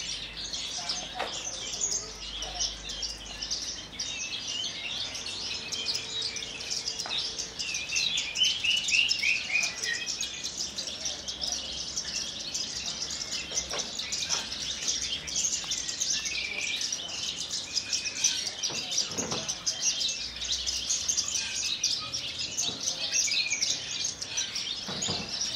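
Javan bush lark singing a long, continuous song of rapid, varied high chirps and trills, with a quick descending run of notes about a third of the way through.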